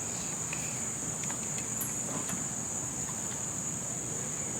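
Steady high-pitched insect chorus, an unbroken trilling that holds at one pitch throughout.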